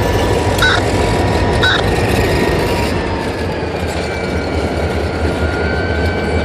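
A train passing, with a steady rumble, a few clicks of wheels over rail joints about a second apart early on, and a thin, high wheel squeal in the second half.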